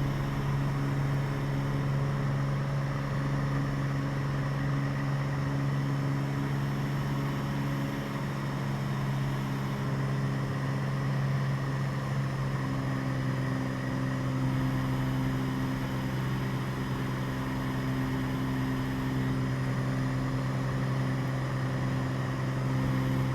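Cessna 206 Stationair's piston engine and propeller running steadily at takeoff power in the climb just after liftoff: an even, unbroken drone with a strong low hum.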